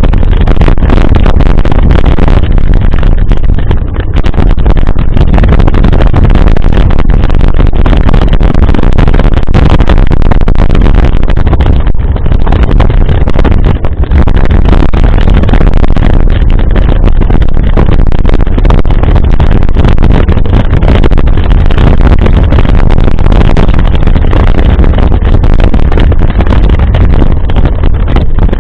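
Heavy, steady wind buffeting a camera microphone on a moving bicycle: a loud, continuous low rumble with no break.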